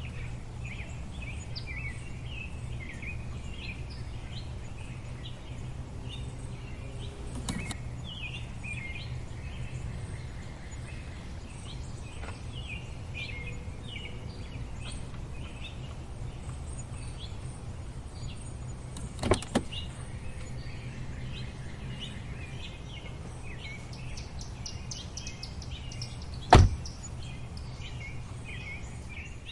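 Many small birds chirping over a steady low rumble, with a few sharp knocks, the loudest a little before the end.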